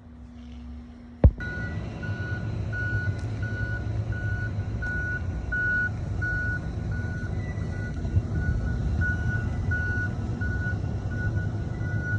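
Truck engine running with a steady low rumble while a reversing beeper sounds a regular series of short high beeps; the sound starts abruptly with a sharp click about a second in.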